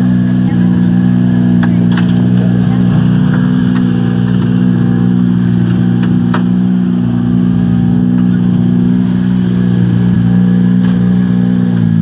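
Rally car engine idling steadily, close by, with a few light clicks over it.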